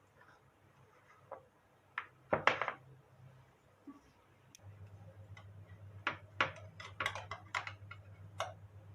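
Kitchen handling sounds: scattered clicks and knocks of utensils and dishes, loudest in a short cluster early on and a quick run of clicks near the end. A low steady hum starts about halfway through.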